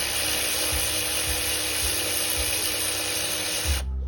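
A power tool running in one steady burst with a dense hiss, then cutting off sharply near the end.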